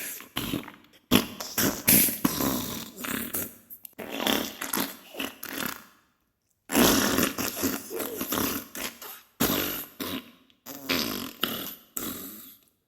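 Diarrhea sound effect: a run of wet farting and sputtering bursts, broken by a short silence about six seconds in.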